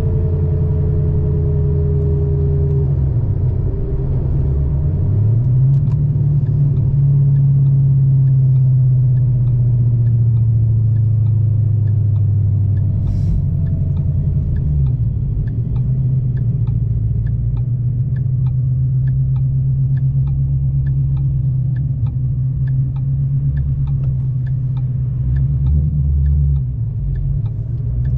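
Deep exhaust rumble from a 2013 Mustang GT's 5.0 Coyote V8 running through shorty headers, an X-pipe and no catalytic converters. The engine note drops a few seconds in, climbs again soon after and then holds fairly steady, with a light tick repeating a little faster than once a second in the second half.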